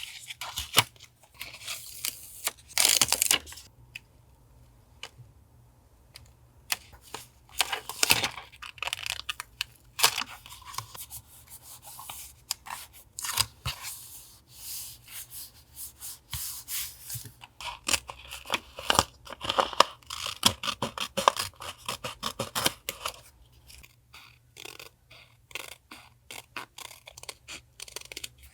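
Paper being handled for collage journaling: an irregular run of crisp rustling, tearing and scraping, with a short lull about four seconds in.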